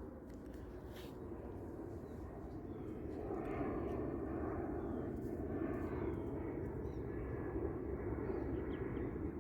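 Outdoor background noise: a steady low rumble that grows louder about three seconds in, with a few faint bird chirps.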